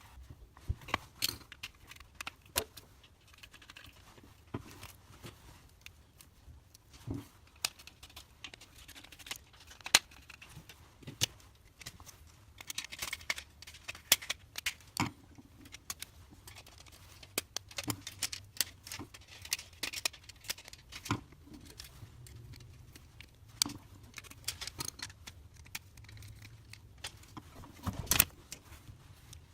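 Scattered clicks, taps and light metallic clatter of hand work on electrical fittings, as wires, screws and terminals are handled while wiring a power point and LED driver, over a faint low hum.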